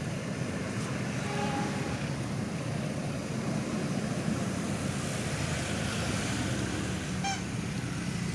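Steady low rumble of vehicles, with a few faint short tones about a second in and again near the end.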